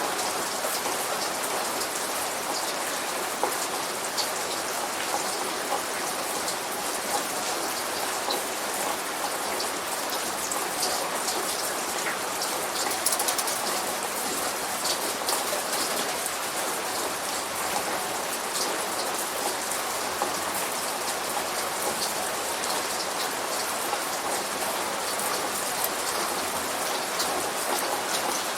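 Steady light rain falling, with many small individual drops heard hitting a surface throughout.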